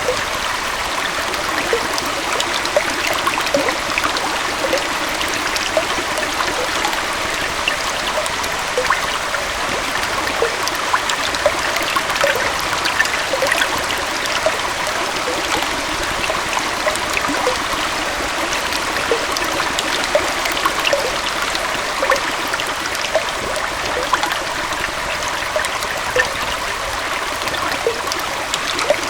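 Small forest waterfall and stream flowing steadily: an even rush of water with many small splashes and bubbling pops over it.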